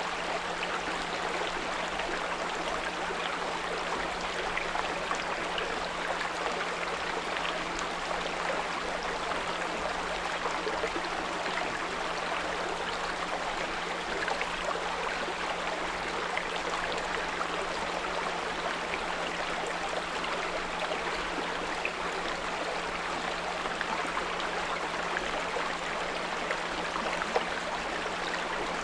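Small brook running and babbling steadily, with a steady 174 Hz pure tone humming underneath. One brief louder click sounds near the end.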